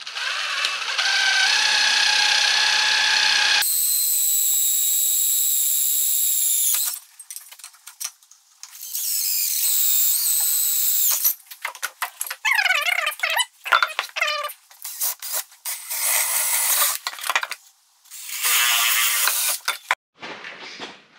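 Power tool working a wooden block. A whining motor runs in several stretches of a few seconds each, changing abruptly between them, with short broken-up bursts in the later part.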